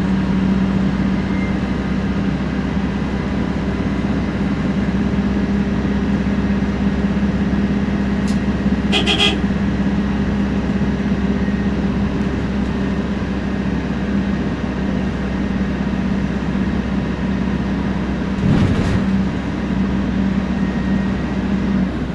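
Temsa Prestij SX midibus running steadily under way: a constant engine and drivetrain drone with a steady low whine. A short beeping toot sounds about nine seconds in, and there is a brief thump near the end.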